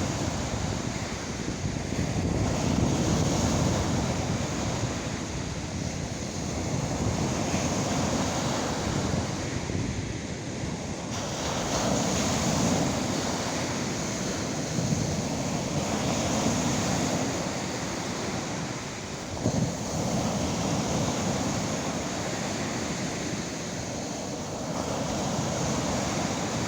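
Lake waves breaking and washing up on the Lake Erie shore, the surf swelling and easing every few seconds, with wind on the microphone. A short thump about two-thirds of the way through.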